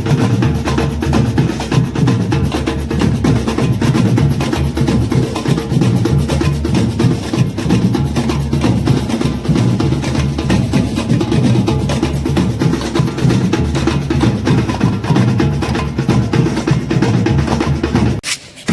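Percussion music with drums and a fast, steady beat, which cuts off sharply near the end.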